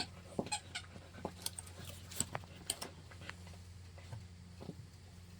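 Irregular light clicks and taps, about a dozen, mostly in the first three seconds and thinning out after, over a steady low hum.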